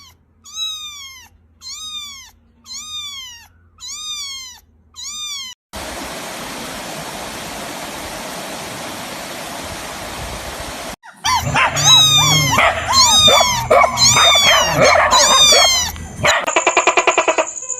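A series of high animal cries, each rising then falling, about one a second, five in a row. Then a few seconds of steady hiss, then a louder stretch of many overlapping cries. Near the end comes a quick pulsing sound with a steady high tone.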